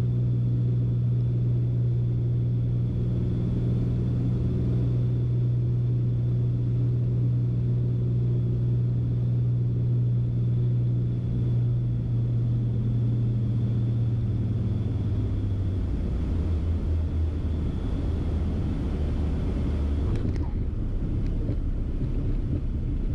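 Steady cabin drone of a Beechcraft Baron B55's twin piston engines and propellers on final approach. Between about twelve and fifteen seconds in, the drone drops to a lower pitch as power comes back.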